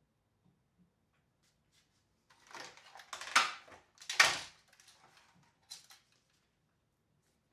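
Short bursts of clattering and scraping from parts being handled on a workbench, loudest twice in quick succession, followed a little later by a single click.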